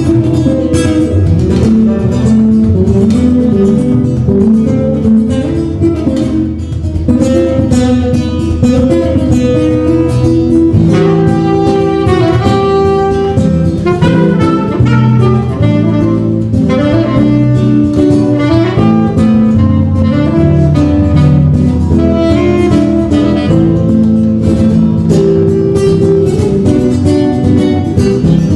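A small acoustic ensemble playing live, led by plucked acoustic guitar in a flamenco-tinged style, with held melody notes over the chords and no break in the playing.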